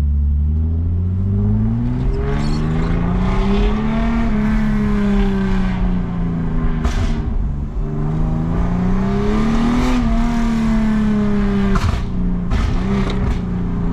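Lexus IS250's V6, running an ECU tune, accelerating in sport mode. The engine note climbs, falls back at a gear change about six seconds in, climbs again, and eases off after about ten seconds.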